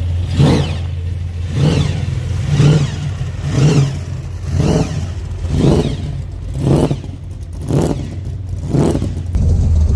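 Car engine at idle, revved in nine short blips about once a second, each rising and falling quickly, then settling back to a steady idle near the end.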